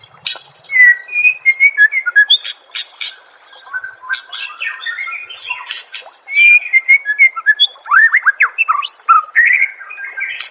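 White-rumped shama (murai batu) singing a loud, varied song of whistled phrases, quick sweeping notes and sharp clicking notes, with only short pauses.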